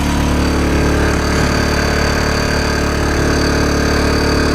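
Small portable gas generator running steadily under load while it charges a battery power station through two chargers.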